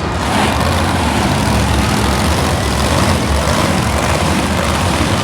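Monster truck engine running loud and steady with a deep rumble, filling the arena.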